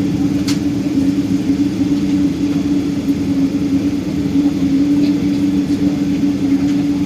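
Boeing 777-200's jet engines heard inside the passenger cabin as a steady hum and rumble at low power, holding one constant tone. There is a single short click about half a second in.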